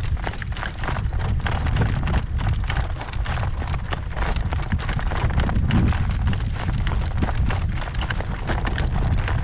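Horse's hooves clip-clopping steadily as he is driven in harness, over a heavy low rumble of gale-force wind buffeting the microphone.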